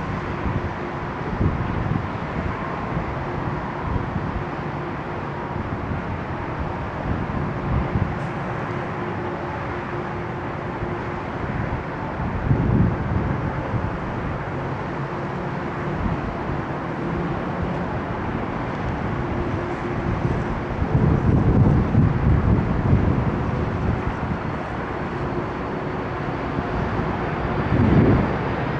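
Wind gusting on the microphone over a steady distant jet-engine hum at an airport, with a jet's rising engine whine starting near the end.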